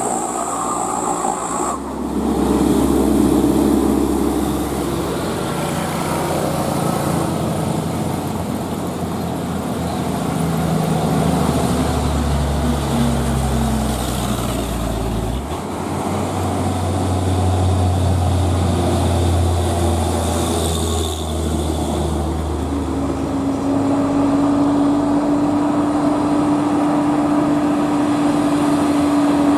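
Engine of a heavily loaded truck running hard on an uphill climb, its pitch shifting in steps several times.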